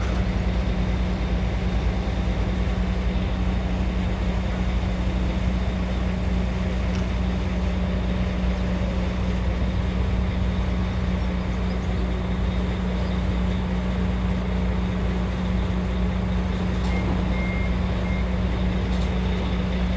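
Truck engine running steadily at constant speed, a low unchanging drone.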